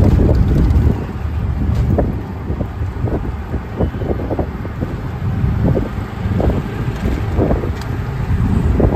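Vehicle road noise with wind buffeting the microphone: a heavy, uneven low rumble with scattered short knocks.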